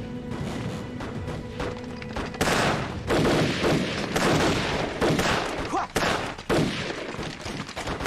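A battle soundtrack of massed gunfire, rifle shots and machine-gun bursts, layered over dramatic background music. The firing grows louder and denser about two and a half seconds in.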